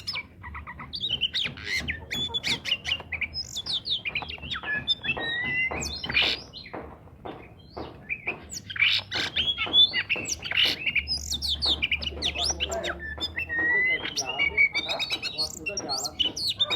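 Oriental magpie-robin (kacer) singing without pause, a fast varied song of clear whistles, quick rising and falling notes and harsh squawking notes, with only short breaks.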